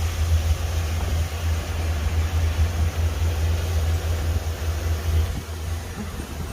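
Steady low rumble over a hiss from a ride in a moving aerial tram gondola, easing slightly near the end.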